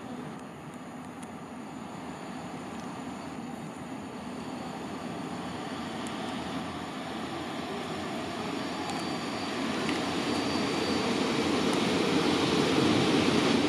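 EP07 electric locomotive hauling a passenger train into the platform, the rumble of its wheels and running gear growing steadily louder as it nears. A thin high squeal of the brakes comes in near the end as it slows.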